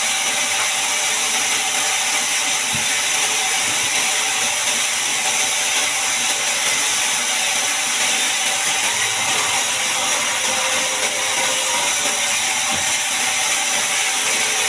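Band sawmill running steadily, its blade sawing through a large mahogany log.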